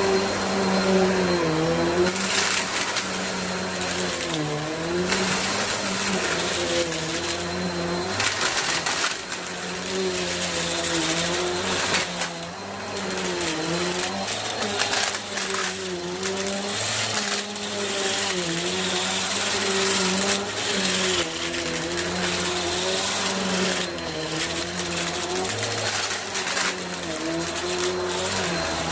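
Bissell vacuum cleaner running steadily, its motor drone dipping in pitch and recovering now and then as it is pushed over the floor, over a constant hiss of rushing air.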